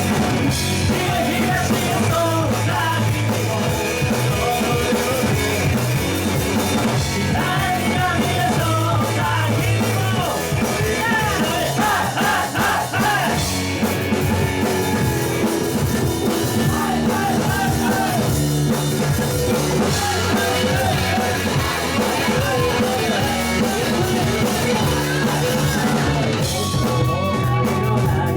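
Rock band playing, with singing over drums and guitar, continuing without a break.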